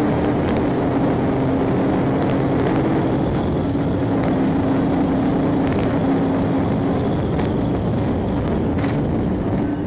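Pursuing patrol car's engine running hard at speed, heard from inside the cabin as a steady drone under heavy road and wind noise.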